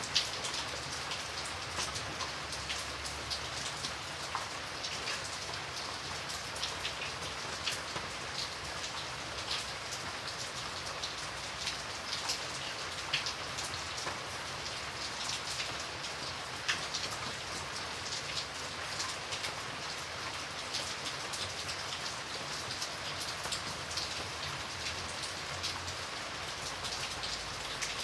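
Steady rain with many separate raindrops pattering against a window pane.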